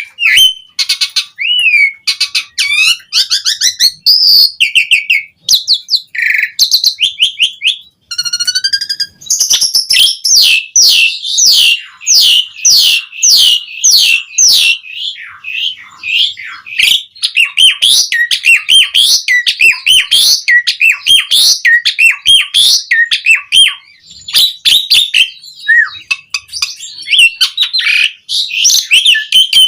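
Asian pied starling (jalak suren) singing loudly and vigorously, a varied run of whistles, chirps and harsher notes. From about nine seconds in, it becomes a fast, unbroken stream of short sweeping notes.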